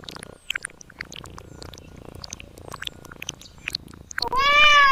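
Faint scattered clicks, then near the end a domestic cat meows once: a loud call about a second long that rises slightly and falls.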